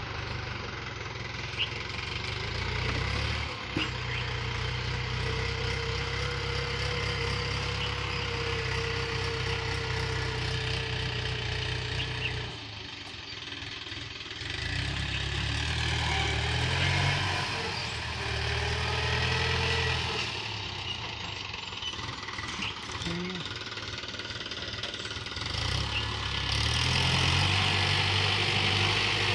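Tractor engine running, with people's voices over it.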